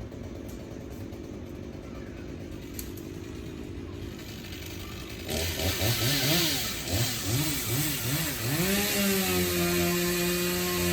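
Chainsaw idling, then about five seconds in its throttle is blipped several times in quick succession and held wide open for about three seconds before dropping back.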